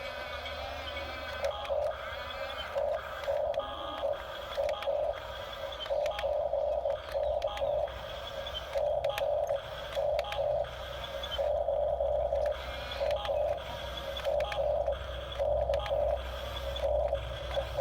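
Small electric drive motors of an RC toy bulldozer whining in short, irregular stop-start bursts, over a steady low hum.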